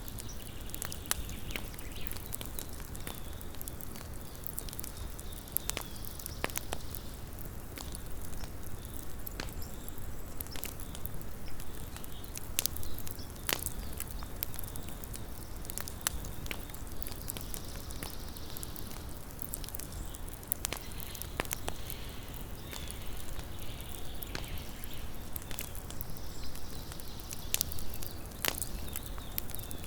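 Small campfire crackling: frequent, irregular sharp pops and snaps over a steady low rumble and soft hiss of burning wood.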